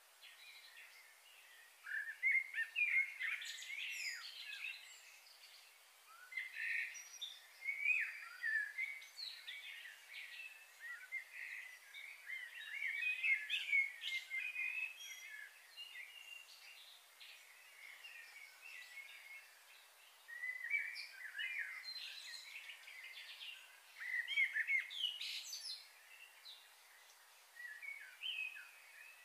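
Small birds chirping and twittering in bouts of a few seconds over a faint steady hiss.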